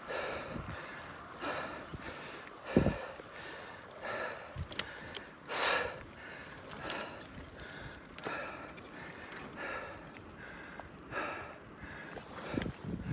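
A person breathing hard close to the microphone, about one breath every second and a half. A sharper hissing exhale comes about six seconds in, and there are a couple of dull low thumps, the loudest about three seconds in.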